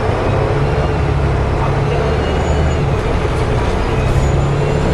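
Volvo B7TL double-decker bus heard from inside the saloon, its diesel engine running steadily under way, with a thin, faint high whine that drifts slightly in pitch above the drone: the strange howling noise that this bus makes.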